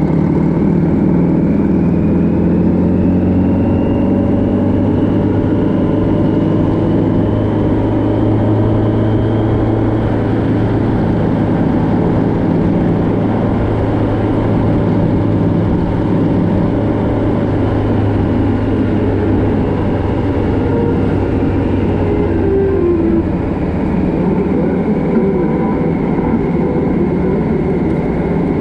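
Motorcycle engine running steadily under way, with a whine that rises slowly in pitch over the first ten seconds and falls again near the end.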